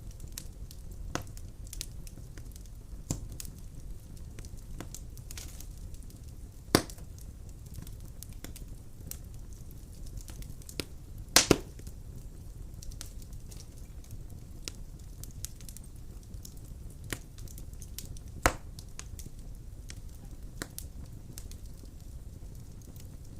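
Wood fire crackling in a stove, with scattered sharp pops over a steady low rumble; the loudest is a quick double pop about halfway through.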